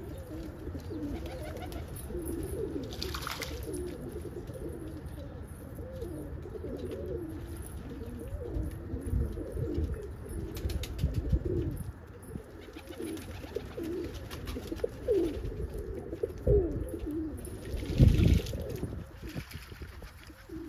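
Several domestic pigeons, Birmingham rollers, cooing over and over, the calls overlapping. A thump near the end is the loudest sound.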